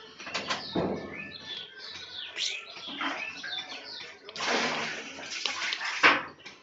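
Small birds chirping repeatedly in quick, high, twittering calls, with bursts of rustling and scuffling, the sharpest and loudest near the end.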